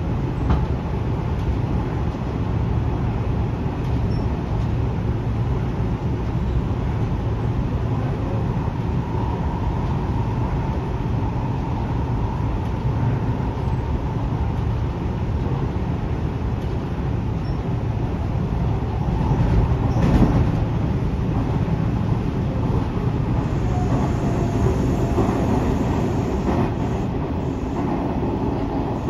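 Interior running noise of a Hanshin 1000 series electric train with Mitsubishi IGBT-VVVF traction equipment: a steady low rumble of wheels on rails and motors at speed. There is one loud thump about twenty seconds in.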